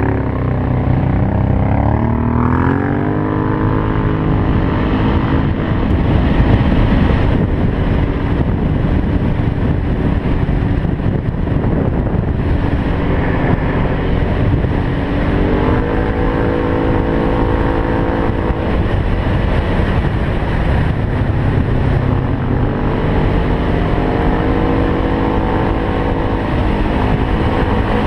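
Can-Am Outlander 500 ATV's V-twin engine through an aftermarket Yoshimura exhaust, revving up over the first few seconds and then running on the trail. Twice it holds a steady pitch for a few seconds.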